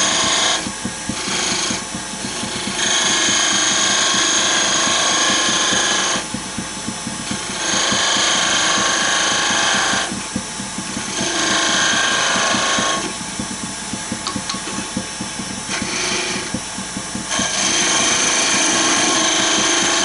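Wood lathe running with a turning tool cutting into the spinning wood in repeated passes. Each pass brings a loud, high-pitched cutting sound lasting one to three seconds, and between passes only the lathe's low hum is heard.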